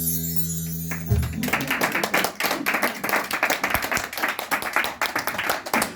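A final guitar chord rings out and fades, and about a second in applause breaks out, many hands clapping unevenly.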